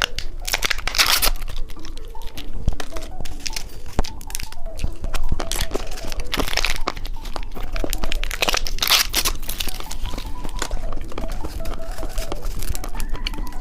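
Plastic candy wrapper crinkling and tearing as a fruit-flavoured candy stick is unwrapped, with irregular crackles throughout.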